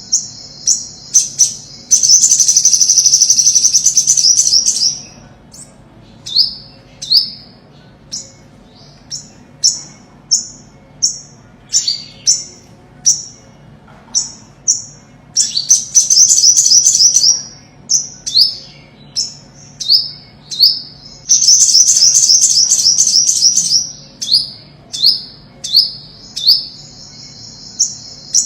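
Olive-backed sunbird singing: high, sharp single chirps, broken three times by fast, loud trills lasting two to three seconds each.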